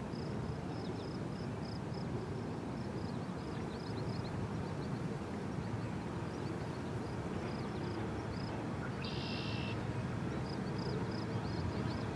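Low, steady rumble of a distant diesel freight train approaching, growing slightly louder. Over it a bird repeats short high chirps about three or four times a second, pauses, and gives one short buzzy call about nine seconds in before the chirping resumes.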